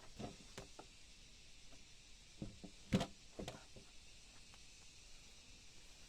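Scattered light knocks and clatters, with one sharper knock about three seconds in and another just after it, over a faint background hiss.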